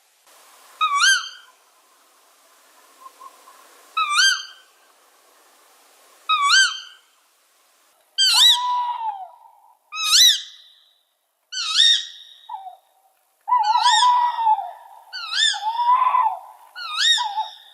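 A bird of prey calling: a series of short, sharp, pitched calls, about nine in all, repeated every one to two seconds. A second, lower call joins in from about eight seconds in.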